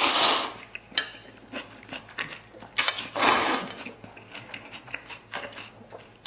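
Close-miked eating sounds: a person chewing soft braised pork with wet clicking mouth noises, broken by two louder, noisy smacking bursts, one at the start and one about three seconds in.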